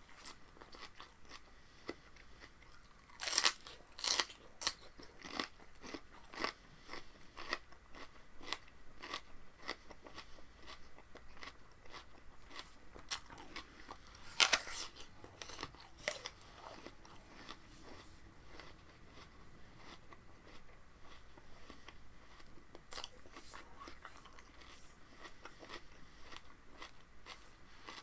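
Close-miked chewing and crunching of raw spinach stalks in the mouth: a few louder crisp bites at about three, four and fourteen seconds in, with quieter steady chewing between.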